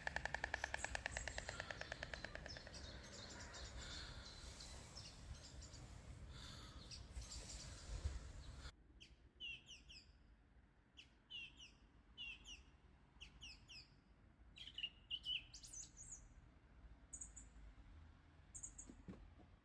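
White stork bill-clattering, a rapid even train of wooden clicks that fades out over the first few seconds. After an abrupt cut about nine seconds in, a small bird gives short, high chirps in ones and twos.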